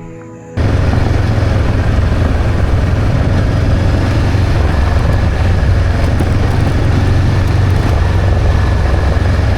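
Music cuts off about half a second in and gives way to a motorcycle on the move: steady engine running under loud wind rush on the microphone.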